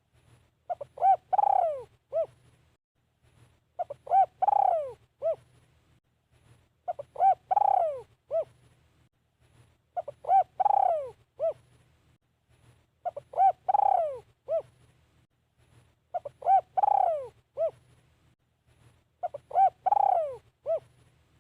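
Spotted dove cooing: a phrase of a few short coos around one longer falling note, repeated seven times at about three-second intervals. This is the decoy call used to lure wild spotted doves.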